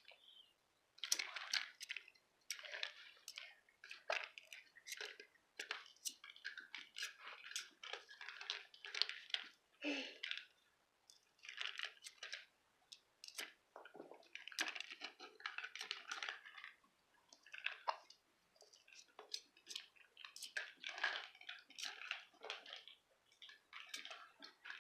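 A puppy chewing: irregular runs of short, wet clicks and smacks with brief pauses between them.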